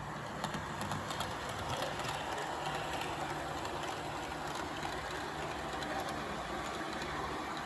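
HO scale model train running along the layout track: a steady rolling rumble of the wheels and motor, with light clicks over the first couple of seconds.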